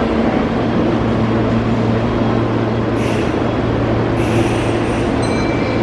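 Kintetsu electric commuter train standing at the platform with its onboard equipment humming steadily. Short hisses come about three seconds and four seconds in, and a brief high beep sounds near the end.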